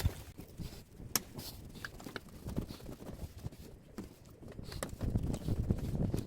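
Scattered sharp knocks and clicks, with a low rumble underneath, from handling and dismantling a scrapped air-conditioner outdoor unit. The knocks come irregularly, about one or two a second, and a louder stretch of rumbling and knocking comes near the end.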